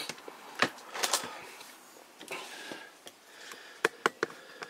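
Plastic toy pieces being handled and shifted on a table: scattered light clicks and knocks with some rustling, and three sharp clicks in quick succession near the end.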